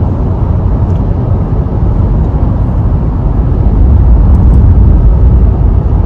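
Steady low rumble of road and engine noise inside a moving car, growing a little louder about four seconds in.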